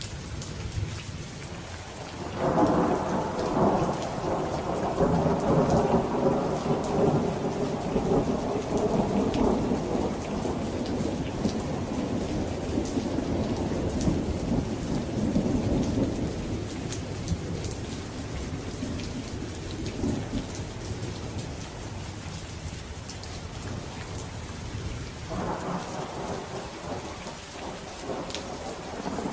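Steady rain falling, with scattered drop ticks. A long roll of thunder comes in about two seconds in, rumbles for well over ten seconds and slowly fades, and another roll begins near the end.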